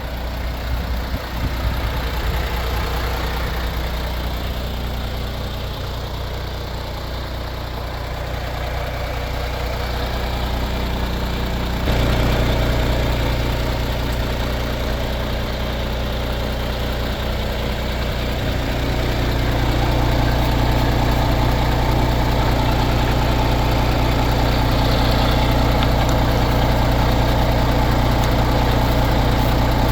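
MAN TGX 18.500 truck's inline-six diesel engine idling steadily. Its sound steps up noticeably about twelve seconds in and again about twenty seconds in, then holds steady.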